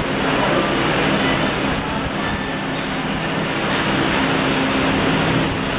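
Steady, dense crackle of electric arc (stick) welding, with a low machine hum underneath.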